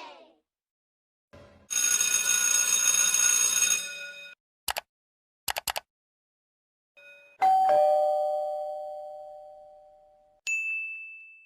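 A run of short sound effects: a ringing, many-toned sound for a couple of seconds, then a few sharp clicks. Then a two-tone ding-dong doorbell chime rings out and fades over about three seconds, followed by a short high beep near the end.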